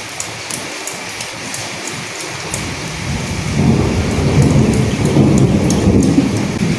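Steady rain falling, with scattered sharp drips, and a roll of thunder rumbling up about a third of the way in, loudest in the second half, then fading.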